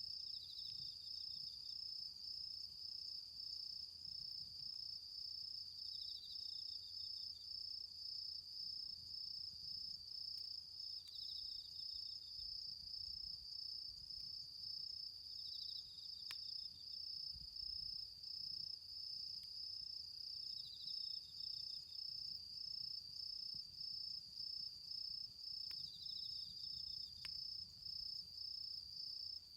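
Autumn insects singing: one gives a steady, fast-pulsing high trill throughout. A second insect adds a short, slightly lower trill about every five seconds, six times in all. A few faint clicks come in the second half.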